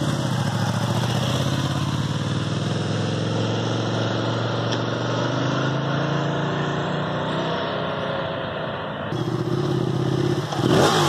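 A motor vehicle's engine running steadily, its pitch drifting slowly up and down, with an abrupt change in the sound about nine seconds in.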